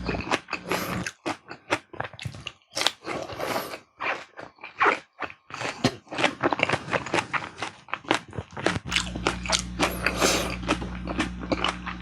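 Close-miked eating: an irregular run of bites, crunches and mouth clicks as food is chewed. A low steady hum comes in about three-quarters of the way through.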